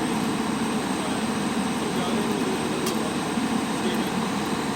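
Arc welding crackling steadily, with one sharp click about three seconds in.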